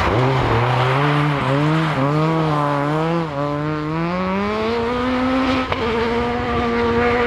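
Rally car engine under hard throttle, its pitch wavering up and down with throttle changes, then climbing and holding high as the car accelerates away.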